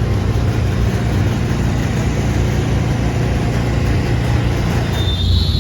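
Steady, loud engine rumble of the kind heard around a dirt-track pit area. A high, wavering whine comes in near the end.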